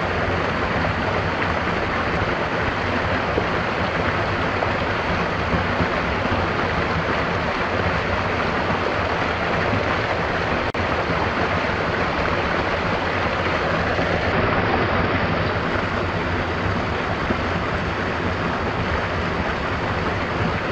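Stream water rushing steadily, with no change in level.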